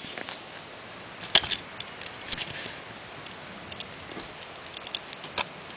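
Scattered light clicks and taps over a steady faint background hiss, with a small cluster about a second and a half in and another near the end. No engine is running yet.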